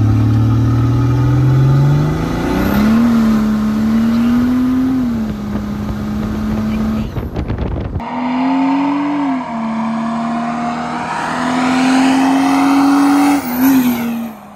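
1986 Mercedes-Benz 300D's OM603 turbodiesel straight-six, fitted with a Holset HY35 turbo, accelerating hard at full throttle. The engine note climbs and drops back at the gear changes. It is heard first inside the cabin, then, after a cut about eight seconds in, from the roadside as the car comes up and passes near the end.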